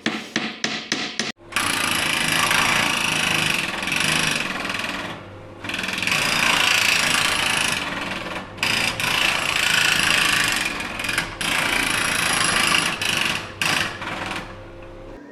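A quick run of sharp taps, then a power tool running in long stretches with a few brief stops, as timber is worked.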